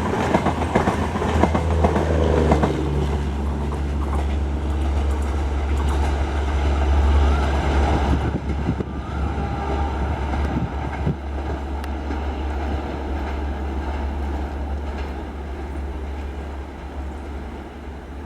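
Express passenger train running past at speed, wheels clattering over the rail joints over a steady low rumble; the sound eases off over the last several seconds as the train draws away.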